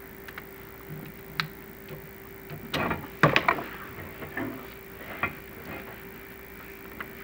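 Chimney inspection camera knocking and scraping against clay flue tiles as it is moved through the flue: scattered light clicks, with a louder cluster of knocks and scrapes about three seconds in and another knock about five seconds in, over the camera system's steady hum.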